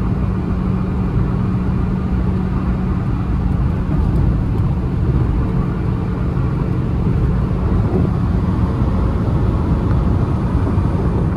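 Honda City's 1.5-litre four-cylinder petrol engine running at a steady high speed, a constant drone heard from inside the cabin over heavy road and wind noise.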